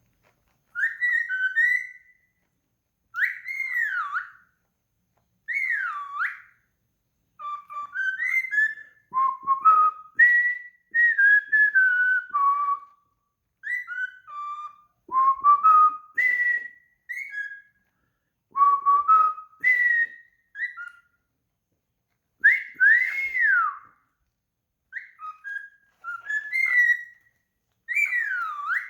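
A bird whistling its song in short, clear phrases of swooping and warbling notes, one every one to two seconds.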